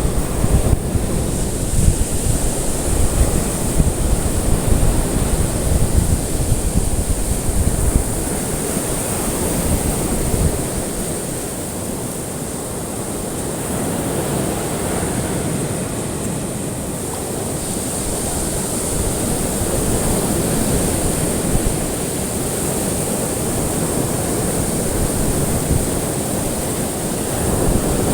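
Ocean surf: a continuous rush of waves with heavy low rumble for the first eight seconds or so, then a softer rush that swells and eases.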